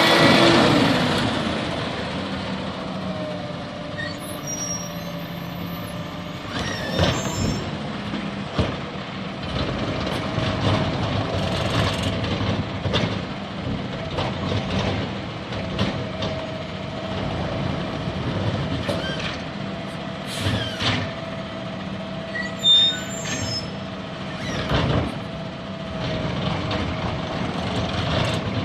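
Garbage truck at work: the engine's pitch falls at the start as it slows, then a steady whine runs under repeated clunks and knocks, with air-brake hiss.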